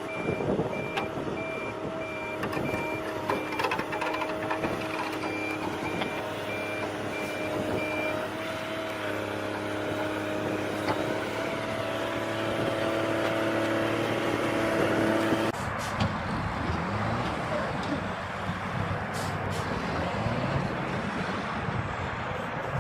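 A truck's reversing alarm beeping about once a second over the steady running of a heavy truck engine; the beeping stops about eight seconds in. About fifteen seconds in the sound changes abruptly to a rougher, noisier engine sound with a few clicks.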